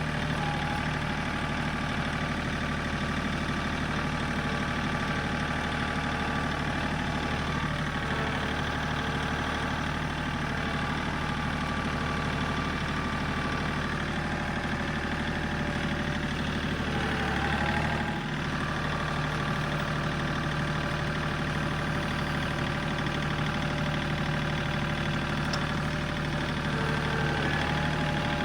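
John Deere 3 series compact tractor's diesel engine running steadily while it works the grapple, with a brief change and dip in its note about eighteen seconds in.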